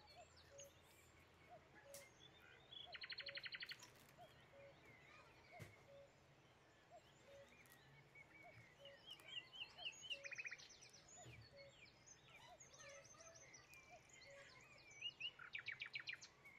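Faint birdsong: several quick trills and scattered chirps, over a soft note that repeats steadily.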